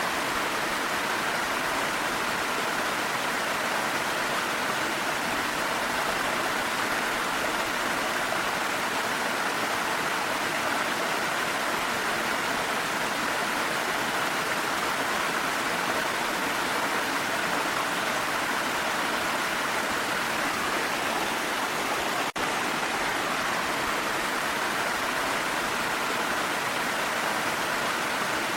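Waterfall and stream water rushing steadily, an even unbroken roar of falling water, with a momentary dropout about 22 seconds in.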